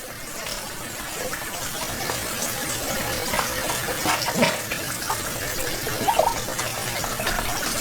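Water running or pouring steadily, growing slightly louder, with a few short high chirps over it.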